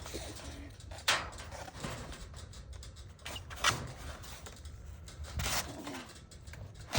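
Wooden beehive boxes being handled and set down: two sharp knocks and a short scrape of wood on wood.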